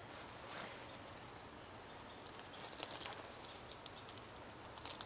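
Faint background hiss with a few short, high bird chirps scattered through it, about four in all.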